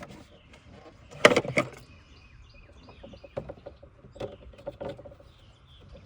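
Handling clatter from a replacement ignition coil: a sharp burst of clicks about a second in, then scattered lighter clicks and knocks. Faint bird chirps sound in the background.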